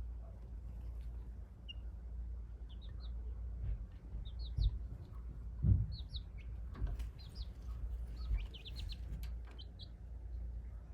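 A young chick, about two and a half weeks old, peeping in short high chirps, often two to four in quick succession, with a few dull low thumps around the middle.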